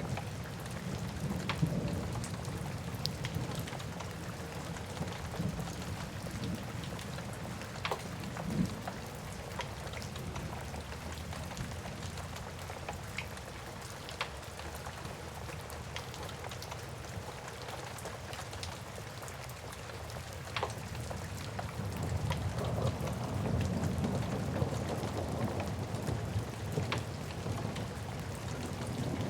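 Steady rain with a wood fire crackling, scattered sharp pops standing out over the hiss. A low rumble is strong at the start, eases off, and swells again about three-quarters of the way through.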